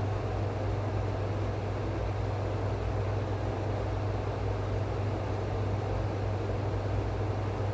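A steady low hum under an even rushing noise, unchanging in level or pitch throughout, like a running fan or other machine.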